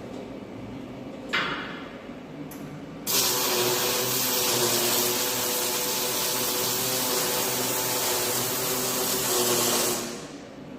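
Electric arc welding on a steel chassis frame: two brief arc strikes, then one steady crackling weld run of about seven seconds that stops sharply near the end.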